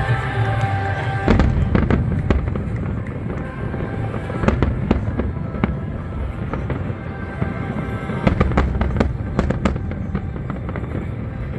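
Aerial fireworks bursting: a steady run of sharp bangs and crackles, thickest about a second in, around the middle and again near the end, with music playing underneath.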